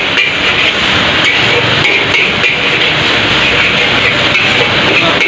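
Metal spatula clanking and scraping in a wok as mee goreng is stir-fried, a few scattered knocks over a steady loud hiss.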